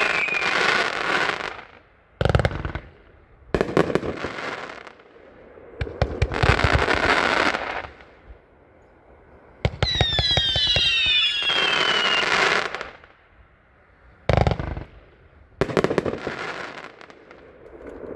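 A 40-shot consumer fireworks cake firing in volleys of launches and bursts. Whistles falling in pitch ring out near the start and again about ten seconds in.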